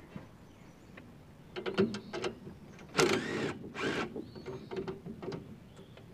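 Hand tools clicking and scraping against metal while panels or bolts are worked loose, with a louder grating scrape about three seconds in and another about a second later.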